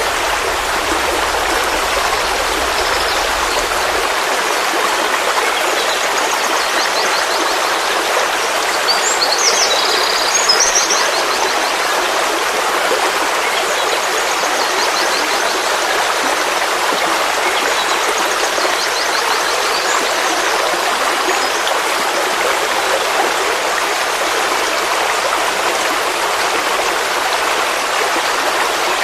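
Forest stream flowing steadily: a constant rush of water. A bird's short high trills sound faintly over it several times, most clearly about nine to eleven seconds in.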